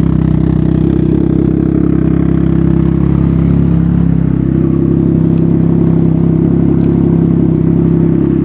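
Can-Am Ryker Rally's Rotax 900 ACE three-cylinder engine idling steadily through an RLS Twin Kaos aftermarket exhaust with its baffle in; a loud, even exhaust note.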